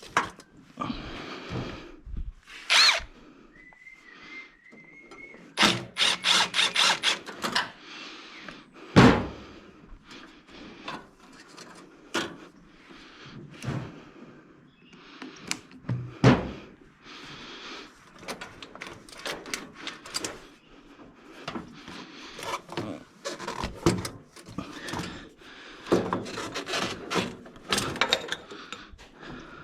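Hand tools clanking and knocking against metal turbo and engine parts during a turbo removal: scattered knocks and clinks, a quick run of clicks about six seconds in, and a loud knock about nine seconds in.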